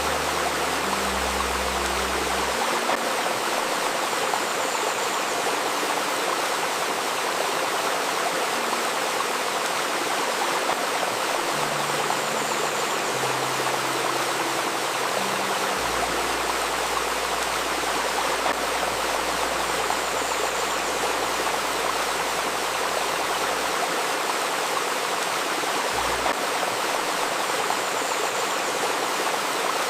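Shallow river babbling steadily over stones, with faint low steady tones coming and going underneath.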